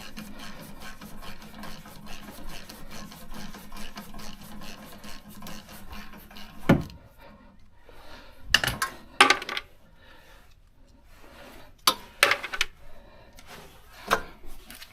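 Rapid, even scraping strokes on brake parts for about the first seven seconds, then several sharp clanks of metal tools or parts being handled.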